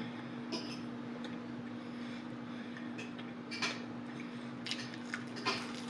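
Close-up chewing of a fried chicken wing: a few soft, scattered crunchy clicks from the mouth, over a steady low hum.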